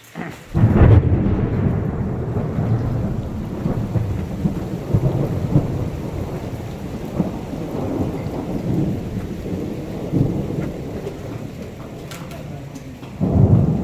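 Thunder: a low rumble that starts abruptly about half a second in and slowly fades away, with another loud rumble starting near the end.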